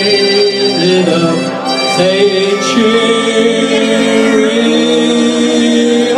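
Live band music: several voices singing long held notes together, changing pitch every second or two.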